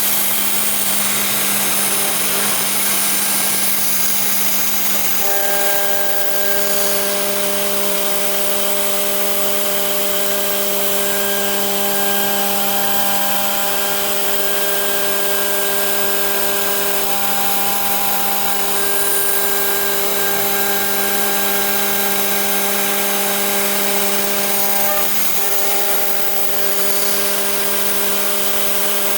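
Home-built CNC router running: its spindle hums and hisses steadily, and about five seconds in a set of steady whining tones joins as the cutter works, breaking off briefly now and then.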